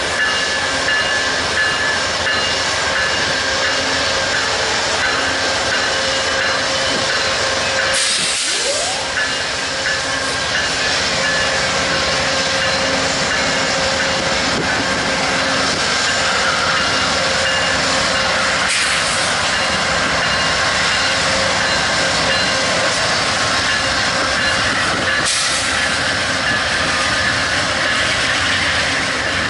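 A train rolling steadily past at close range: a continuous rush of wheel and rail noise with a few faint steady tones over it, and wind buffeting the microphone.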